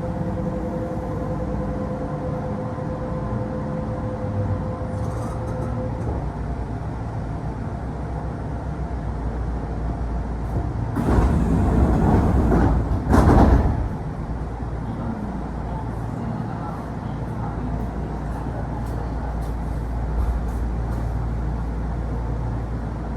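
Interior of a Kintetsu electric commuter train coming to a stop: the traction motors' steady whine fades out over the first few seconds, leaving a low rumble. About eleven seconds in comes a loud rush lasting about three seconds, typical of the doors opening at a station, then a steady hum while the train stands.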